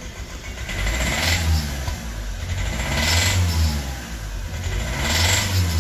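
Hyundai i20 diesel engine revved three times in quick blips, each rising and falling, with a "tak tak" knock. The knock comes from the number 4 Delphi fuel injector, which is jammed and spraying too much diesel onto the piston.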